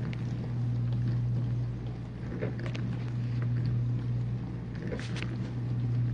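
Whirlpool dishwasher running its main wash: a steady low hum from the circulation pump motor with water spraying inside the tub, and a few faint clicks.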